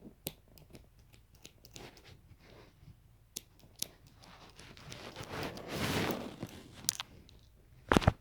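Small handling noises as a length of string is unwound and pulled: scattered clicks and taps, a rustle about five to six and a half seconds in, and a sharp double click near the end.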